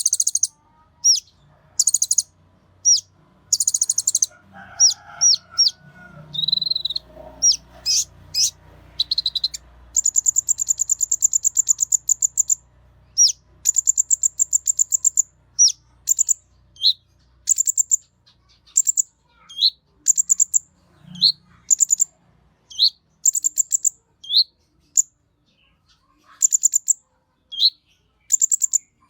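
Konin bird singing: a long run of high, sharp chirps that in places run together into fast trills, with short falling notes between them. About five seconds in, a fainter, lower fluttering call sounds under the song for a few seconds.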